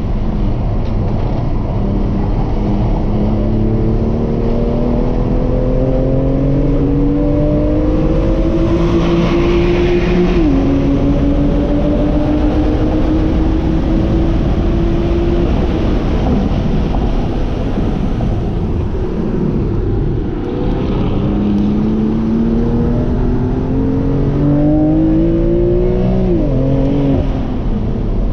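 BMW M2 CS's twin-turbo inline-six heard from inside the cabin under hard acceleration on track, over tyre and road rumble. The engine note climbs steadily and falls sharply at an upshift about ten seconds in, climbs again and fades around fifteen seconds as the driver lifts. It climbs once more from about twenty seconds before another sharp drop near twenty-seven seconds.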